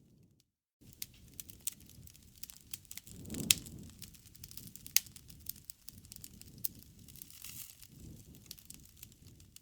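Wood campfire crackling and popping, with sharp pops over a low hiss of flames; the loudest pops come about three and a half and five seconds in. The sound drops out completely for a moment near the start.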